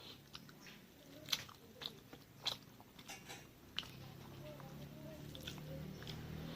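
Close-miked chewing and biting of food, with several sharp, crisp mouth clicks. A low hum builds up in the last couple of seconds.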